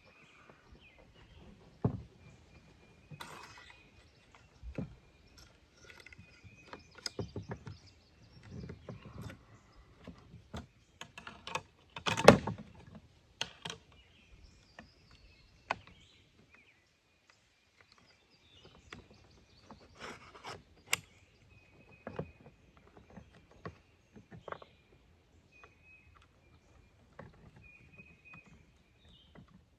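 Swiss K31 rifle parts being handled and fitted during reassembly: scattered clicks, knocks and rubbing, the loudest knock about twelve seconds in, with a quiet pause a few seconds later.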